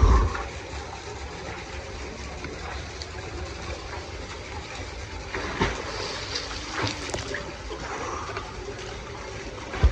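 Water splashing as a person swims through a rock gorge, with a steady rush of moving water and a few sharper splashes, the first at the start and others about five and a half and seven seconds in.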